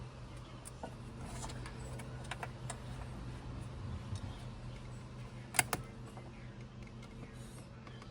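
Scattered small clicks and taps of parts and hand tools being handled, with a sharp double click about halfway through, over a steady low hum.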